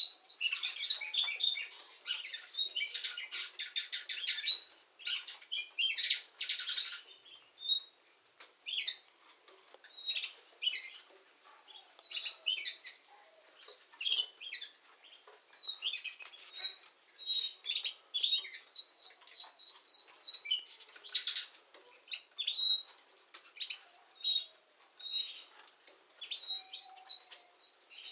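Canary singing: dense rapid trills for the first seven seconds or so, then shorter broken phrases and clear repeated whistled notes, with quick rising runs of notes about two-thirds of the way in and near the end.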